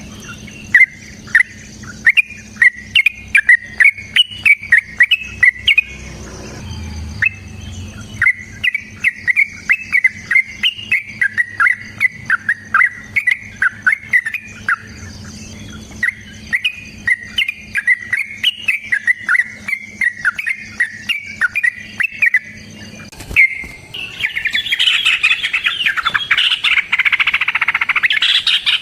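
Yellow-vented bulbul (trucuk) singing its lively song in long, rapid runs of loud chirping notes, with a short pause about six seconds in. Near the end the song turns into a denser, louder chatter.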